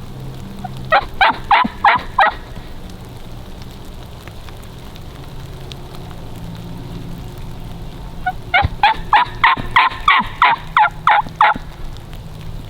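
Turkey yelps: two loud, evenly paced series, five notes about a second in and about ten notes later, each note breaking downward in pitch.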